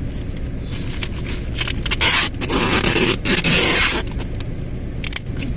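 Gift-wrapping noise: a harsh scrape of paper and tape lasting about two seconds, starting about two seconds in, broken by brief pauses. A low steady rumble sits underneath.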